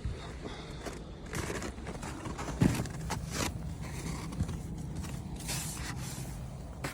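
A Lada Largus's Renault 1.6-litre 16-valve engine running steadily at idle, with scuffs and knocks on top, the sharpest about two and a half seconds in.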